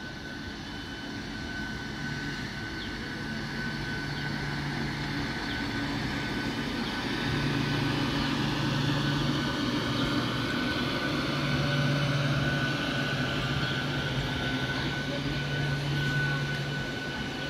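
Electric multiple-unit suburban local train running past: a steady hum with a thin, high steady whine. It grows louder over the first two-thirds and eases slightly near the end.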